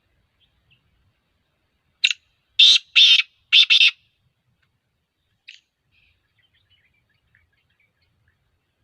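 Black francolin calling: a short sharp note, then three loud, harsh, grating notes in quick succession about two seconds in, and one faint note a few seconds later.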